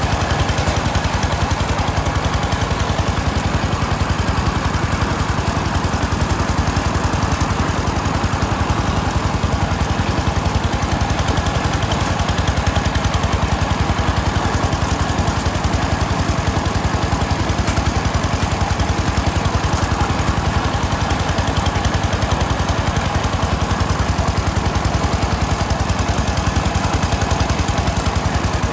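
A small engine running steadily at an even speed, with a fast, even chugging.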